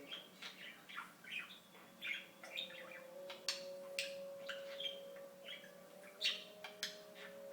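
Pet budgerigar chattering: a quick run of short chirps, clicks and squawks, with a faint steady tone underneath from about two seconds in.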